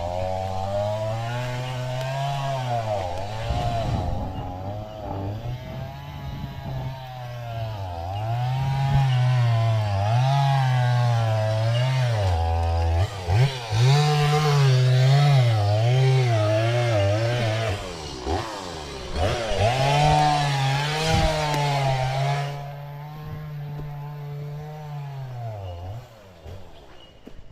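Stihl two-stroke chainsaw cutting firewood, its engine pitch repeatedly sagging under load in the cut and rising again as it revs back up. The level drops in the last few seconds as the saw eases off.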